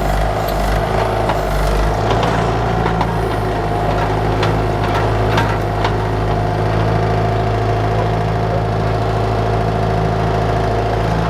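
Bobcat 331 mini excavator's diesel engine running steadily under hydraulic work, with scattered knocks and clicks from about two to six seconds in.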